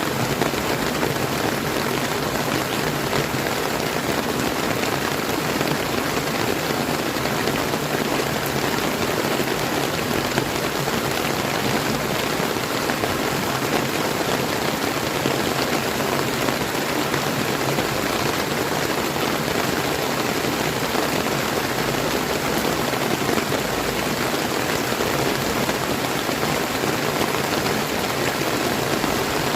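Steady rain falling together with flowing river water, an even hiss with no breaks.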